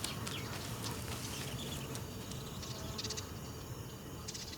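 Insects chirping: scattered short, high chirps over a soft, steady outdoor background.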